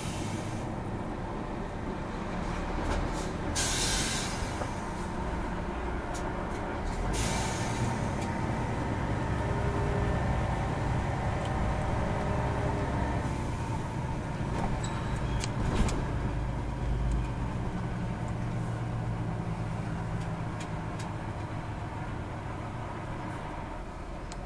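Heavy Scania truck's diesel engine running steadily, with two sharp air-brake hisses about three and a half and seven seconds in, and a fainter hiss later.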